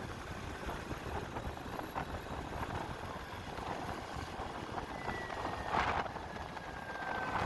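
A motorcycle on the move: steady road and wind noise with irregular light clattering, a short louder rush about six seconds in, and a faint falling whistle near the end.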